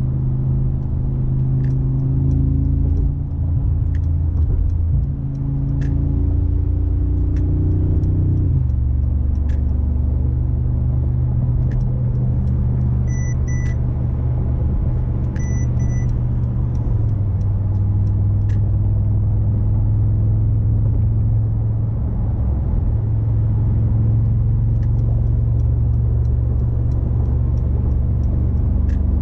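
The 2019 Mercedes-AMG G63's 4.0-liter twin-turbocharged V8 running under a steady drive with a deep, even drone. Its note drops in pitch about eight seconds in and shifts again a little past halfway. Two short pairs of electronic beeps sound near the middle, with light clicks scattered throughout.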